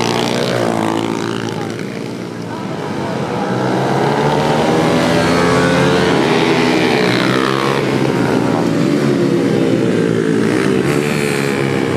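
Several pit bikes (mini motorcycles) racing past, their small engines revving high, with pitch climbing and falling as they accelerate, shift and pass. The sound eases briefly about two seconds in, then builds again as more bikes come through.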